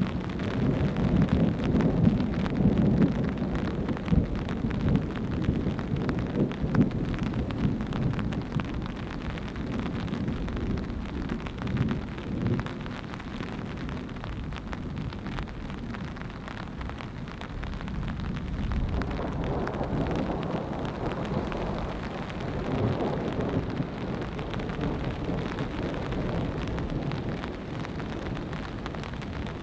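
Thunderstorm: rain falling with gusting wind, and a long roll of thunder that swells about two-thirds of the way through.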